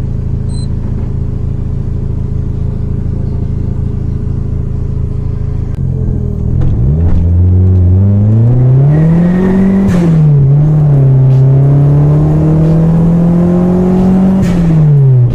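Toyota 4E-FTE turbo four-cylinder engine running steadily, then revved from about six seconds in: the pitch climbs, peaks, dips briefly and holds high before falling off. The sound cuts off abruptly at the end.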